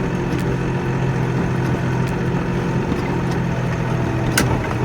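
Kioti NX4510 tractor's diesel engine running steadily, with a single sharp click a little over four seconds in.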